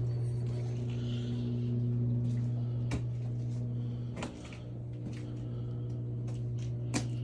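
A steady low mechanical hum, like a motor running, with a few sharp knocks about three seconds in, about four seconds in and near the end.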